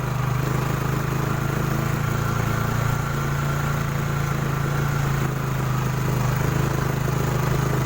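An engine running steadily at a constant low speed, with no revving.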